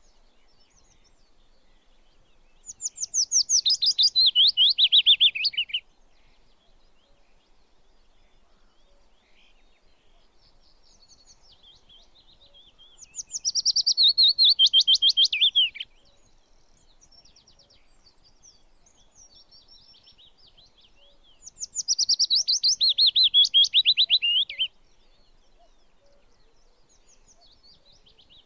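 A songbird singing three loud songs about eight seconds apart, each a fast trill of many short notes dropping in pitch over about three seconds, with faint, softer chirps in between.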